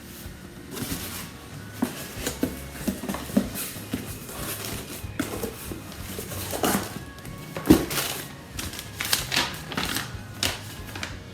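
A cardboard shipping box being opened and its contents handled: scattered irregular clicks, taps and paper crinkling, over background music.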